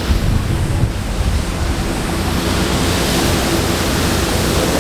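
Steady, loud rumble and hiss: car engines running at a car meet, mixed with wind noise on the microphone.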